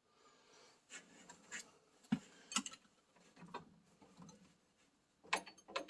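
Faint, scattered clicks and scrapes of a wrench and metal parts being worked on an oil furnace burner as a fitting is turned loose, with a quick cluster of clicks near the end.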